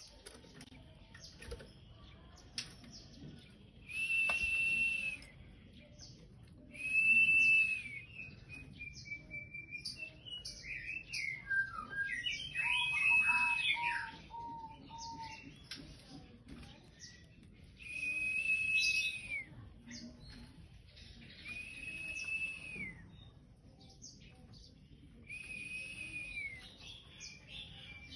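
A young oriental magpie-robin, moulting into adult plumage, singing: long, level whistles every few seconds, mixed with short chirps, and a quick run of lower repeated notes in the middle.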